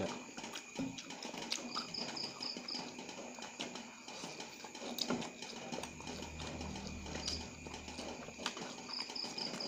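Close-up chewing of noodles and fresh tamarind leaves, with wet mouth clicks and lip smacks. A cricket chirps in short bursts in the background, about two seconds in and again near the end.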